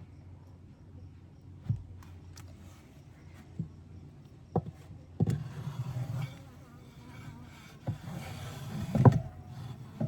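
Wooden beehive parts being handled: scattered knocks and bumps, the loudest about nine seconds in, over a low steady hum.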